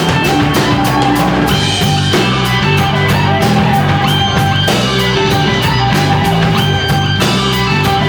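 Live rock band playing: electric guitar and drum kit, with held notes over a steady beat.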